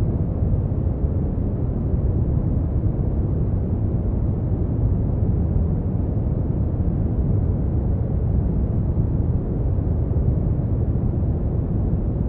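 Continuous brown noise: a steady, deep rumbling hiss with its energy mostly in the bass and little treble, unchanging throughout.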